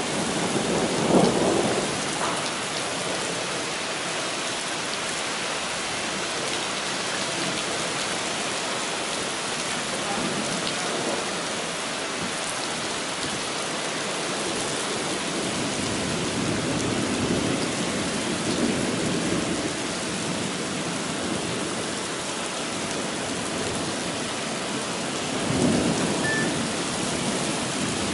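Heavy rain pouring onto pavement in a thunderstorm, a dense steady hiss. Low rumbles of thunder swell up about a second in, again past the middle, and near the end.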